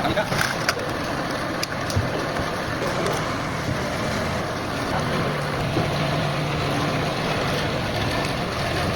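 A steady machine noise, a motor hum over a hiss. There are a few sharp clicks in the first couple of seconds, and the hum grows stronger about halfway through.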